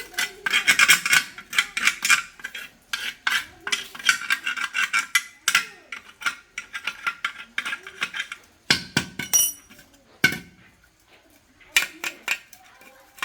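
Repeated scraping strokes of a hand tool on metal, with a few sharp metallic clinks, one with a brief high ring about nine seconds in.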